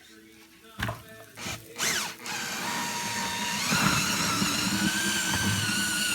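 A few knocks and clatters, then a small electric motor such as a power tool starts about two seconds in and runs steadily with a whining pitch that steps up a little partway through.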